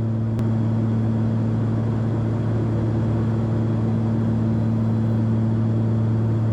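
Steady low drone of a Cessna 340's twin piston engines at cruise power, heard inside the cabin.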